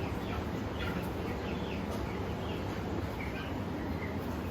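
Small birds chirping: many short, high, quickly falling chirps, several a second, over a steady low hum.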